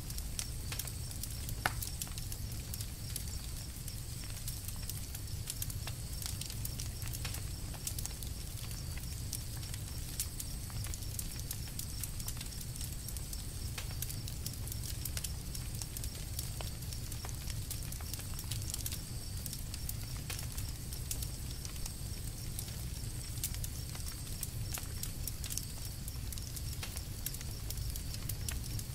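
Campfire crackling: irregular small snaps and pops over a steady low rumble, with one sharper pop about two seconds in.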